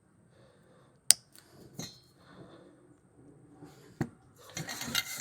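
A few sharp clicks and light handling knocks, then an abrasive green scuff pad starts scrubbing the stainless steel muffler near the end, a fast scratchy rubbing.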